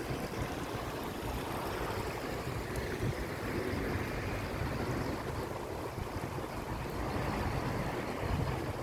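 Wind rushing and buffeting against the microphone outdoors, a steady noise with uneven low rumble.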